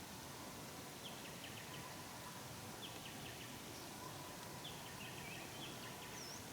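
A bird repeating a short phrase of quick chirps, about every two seconds, over a steady background hiss.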